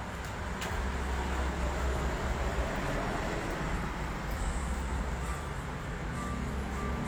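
Steady low rumble of a running vehicle with road-type noise, with a brief click about half a second in.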